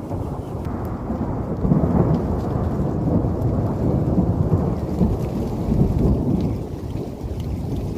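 A loud, low storm rumble that swells about two seconds in and again around five to six seconds, then eases off slightly near the end.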